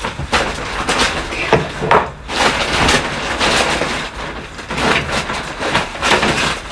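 Wood knocking and scraping as a cut piece of timber is handled and worked into place in a wooden frame: a near-continuous clatter of knocks with a brief lull about two seconds in.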